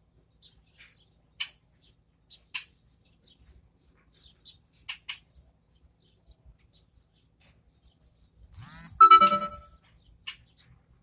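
Pet birds chirping in short, scattered high calls, with one louder, longer call about nine seconds in.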